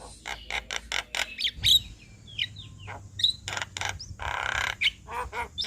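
Jalak kebo starling chattering: runs of quick dry clicks mixed with short whistles and chirps, and a harsh grating call about four seconds in.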